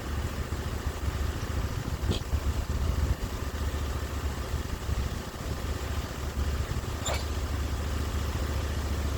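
Sawmill's engine running steadily, with two short clicks, about two seconds in and about seven seconds in.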